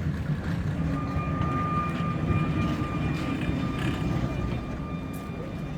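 Sóller electric tram running on its track: a low rolling rumble, with a steady high-pitched whine from about a second in until near the end.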